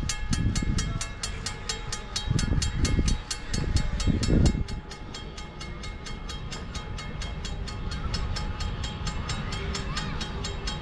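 Railroad grade-crossing bell ringing steadily, about four to five strokes a second, with loud low rumbling in the first half that stops abruptly about four and a half seconds in.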